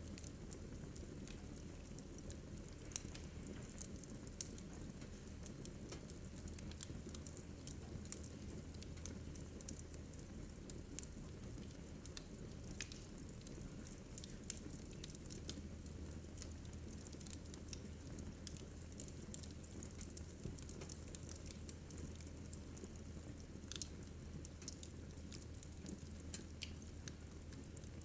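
Wood fire crackling in a fireplace: irregular sharp pops and snaps scattered over a low, steady rumble.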